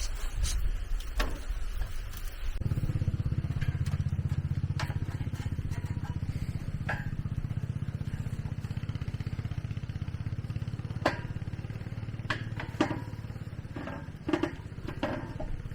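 A small engine comes on suddenly about two and a half seconds in and runs steadily with a fast even putter, while sharp clicks and knocks sound over it.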